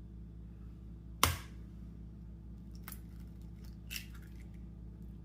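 An egg cracked against the rim of a mug or bowl: one sharp crack about a second in, followed by a couple of faint clicks of the shell.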